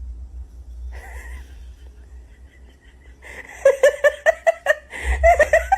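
A person laughing in quick repeated bursts, starting about three seconds in, with a short break before a final run.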